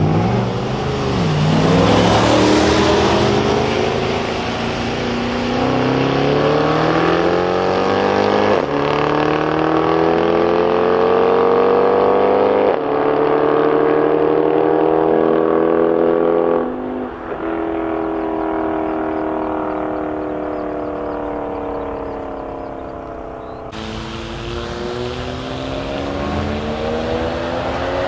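A BMW M5's V10 and a second car accelerating hard from a standing start. The engine pitch climbs and drops sharply at each of three upshifts, then fades as the cars pull away. Near the end another engine revs up steadily.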